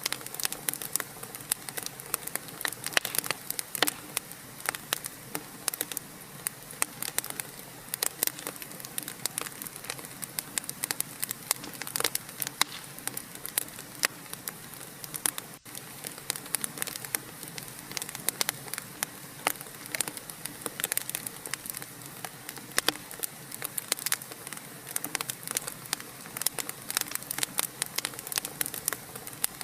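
Wood fire crackling in a fireplace: dense, irregular pops and snaps over a steady hiss.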